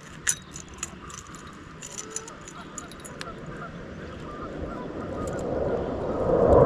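Geese honking in a series of short calls over the river. There is a sharp click about a third of a second in, and a rushing noise swells steadily louder toward the end.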